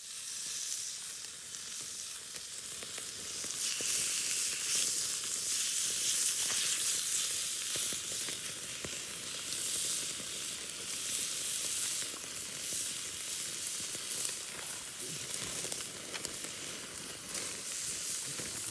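Meat sizzling as it sears on a hot cooking surface, a steady crackling hiss with scattered small pops.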